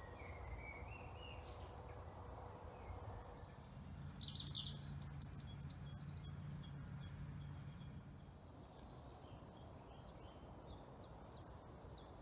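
Wild birds calling and singing, with a cluster of high, falling whistles and chirps about four to seven seconds in and a rising whistle near the start. A faint low hum runs under the middle part, over a low background rumble.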